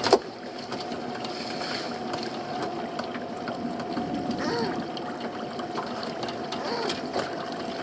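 Small fishing boat's motor running with a steady hum, with scattered knocks and clatter, and one sharp knock right at the start.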